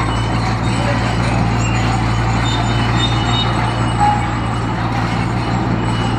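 Heavy construction machine's diesel engine running steadily under load, a constant low drone with mechanical noise over it.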